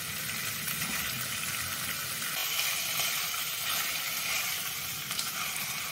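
Raw chicken kidneys sizzling in hot oil and spice masala in a non-stick wok, a steady hiss as they are mixed in with a spatula.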